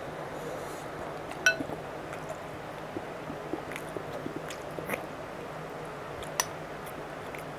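Quiet chewing and mouth sounds of someone eating soft steamed egg, with a few light, sharp clicks scattered through.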